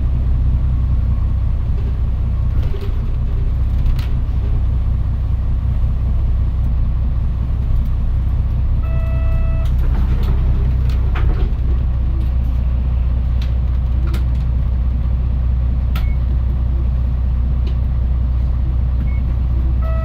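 Mitsubishi Fuso Aerostar city bus's diesel engine running steadily, heard from inside the passenger cabin as a deep, even hum, with scattered light clicks and rattles. A short electronic chime sounds twice, about nine seconds in and at the end.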